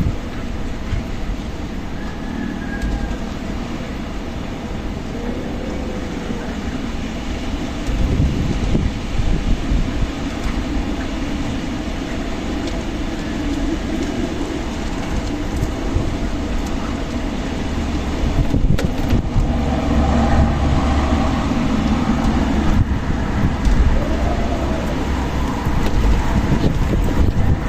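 Strong desert wind blowing, with a heavy low rumble of gusts buffeting the microphone and a few faint brief whistles.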